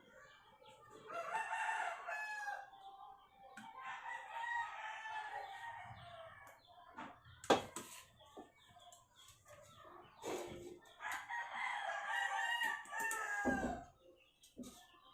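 Rooster crowing three times, each a long call of about two seconds, with a few sharp knocks in between.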